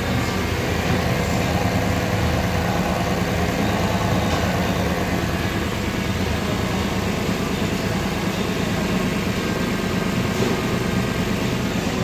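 Toyota Celsior's 3UZ-FE V8 engine running at a steady speed during a test run, with no revving.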